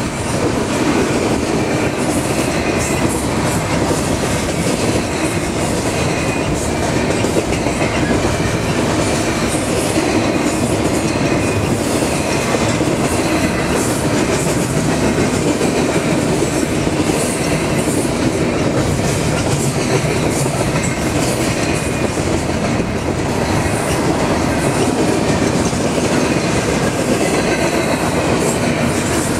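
Double-stack freight train rolling past at speed: a steady, loud rumble of steel wheels on rail with continual clatter over the rail joints.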